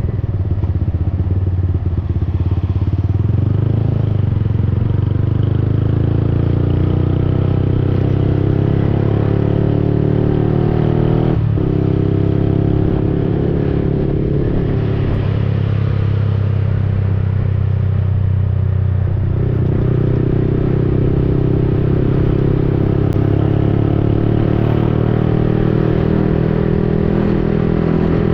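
Yamaha XSR155's single-cylinder engine running through an aftermarket Akrapovic-replica exhaust while riding, heard from an onboard GoPro microphone. The engine note rises and falls with the throttle, with a short break about eleven seconds in and a drop and climb again near the two-thirds mark.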